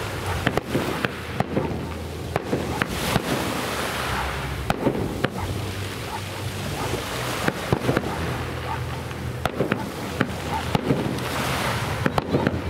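Fireworks going off: irregular sharp bangs and crackles, several a second, over a continuous background rumble.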